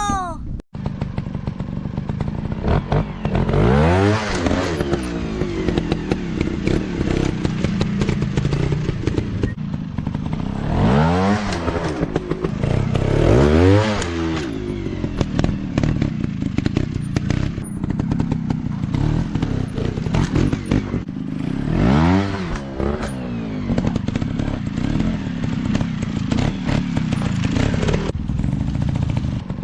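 Off-road dirt bike engine running hard, revving up and dropping back several times, with clatter and knocks throughout from the bike working over rough ground.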